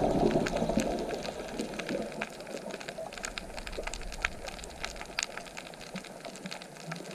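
Gurgling water that fades away over the first second or two, leaving a faint wash of water scattered with many small sharp clicks and ticks.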